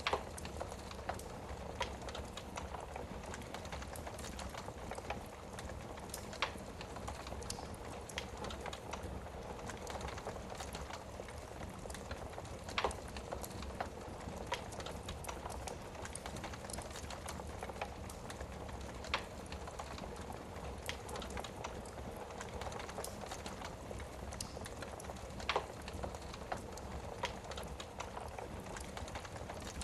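Wood fire burning in a fireplace: a steady hiss of flame with frequent small crackles and about five louder single pops spaced through.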